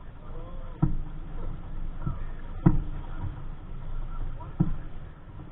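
Waves slapping the hull of a small sailboat in several sharp knocks, the third the loudest, over a steady low rumble of wind on the microphone.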